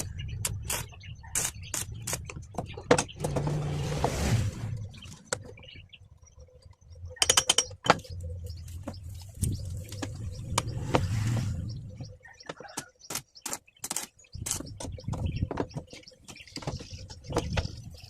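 Irregular sharp clicks and knocks from steel work, over a low hum that stops and starts.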